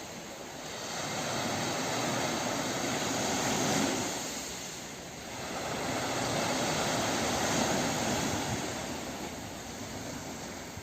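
Sea waves washing onto a beach: a rushing noise that swells and fades twice.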